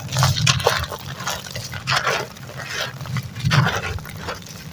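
Hand-made sand-cement pieces, dry and wet, being crumbled by hand: a string of irregular gritty crunches, some with a soft low thud beneath.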